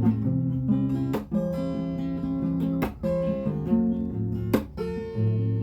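Background music: acoustic guitar strumming chords in a steady rhythm, an instrumental break in a song.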